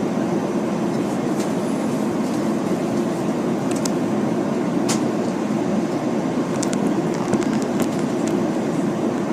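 Steady cabin noise inside an Airbus A330-300 airliner: the engines and airflow give an even, low rumble, with a few faint clicks scattered through it.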